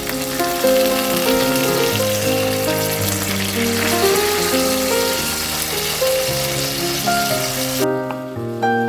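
Food frying in a pan, a steady loud sizzle that cuts off suddenly near the end, over gentle background music.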